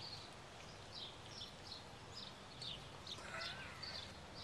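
Small birds chirping, short high calls repeating about twice a second, with a longer warbling call about three seconds in, over faint outdoor background noise.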